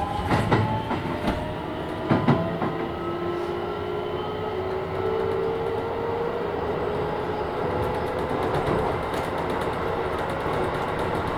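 Keisei 3000 series electric train running, its Toyo IGBT VVVF inverter and traction motors whining in several tones that rise slowly in pitch as the train gathers speed. Wheels knock over rail joints a few times in the first couple of seconds.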